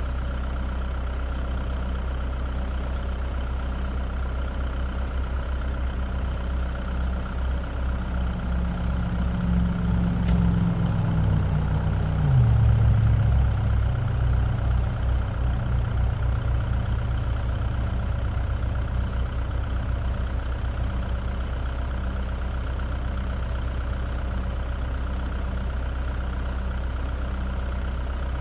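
Kubota tractor's diesel engine running steadily; about ten seconds in it grows louder, then its pitch drops sharply and it is at its loudest for a couple of seconds before settling back to a steady run.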